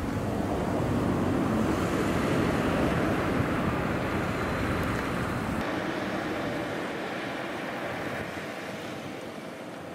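A train passing: a rushing rumble that builds over the first two or three seconds, then fades away slowly, its deep rumble dropping out about six seconds in.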